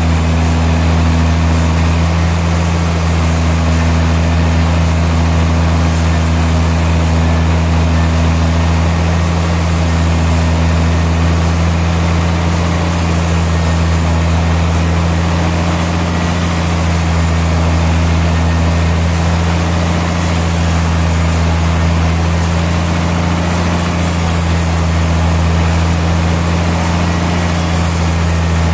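Sawmill machinery running steadily: a loud, deep, even hum that holds the same pitch throughout, with no cuts or impacts.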